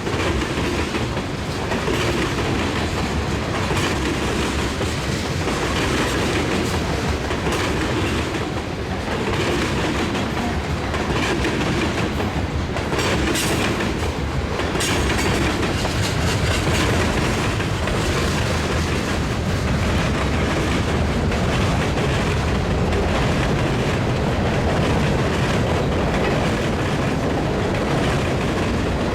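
CN freight train's cars rolling past, with steady wheel clickety-clack over the rail joints and a few sharper clacks partway through.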